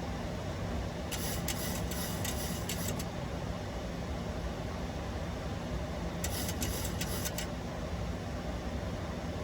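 Steady flight-deck noise of a Boeing 737-800 in descent, a broad hum of airflow and engines. Two short stretches of high crackling hiss break in, about a second in and again around six seconds.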